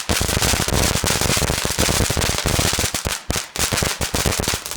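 A lit firework going off in a rapid, unbroken string of sharp bangs and crackles: noisy.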